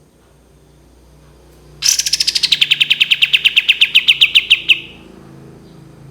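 Kapas tembak songbird giving its long rapid 'tembakan' trill: a fast run of about ten sharp notes a second, lasting about three seconds, beginning about two seconds in and sinking slightly in pitch toward the end.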